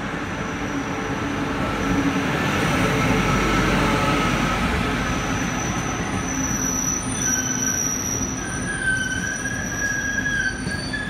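Taiwan Railways E1000 push-pull Tze-Chiang express running alongside the platform: a steady rumble of wheels on rail, loudest about three to four seconds in as the locomotive passes. Thin high wheel squeals ring over it, a new one starting about seven seconds in.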